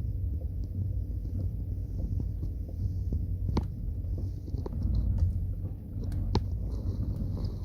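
Sharp knocks from the worn front strut top mount bearings of a 2012 Skoda Octavia A5 as the steering wheel is turned, a few irregular knocks over a steady low hum: the strut bearings have failed.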